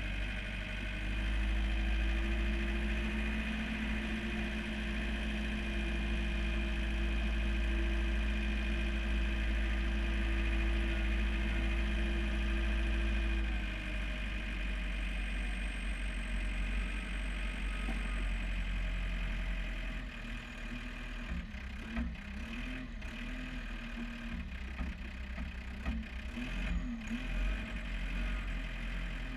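John Deere 4720 compact tractor's diesel engine running steadily. It is louder and holds a steady higher hum for the first dozen seconds or so, then eases back. A few sharp knocks come near the end.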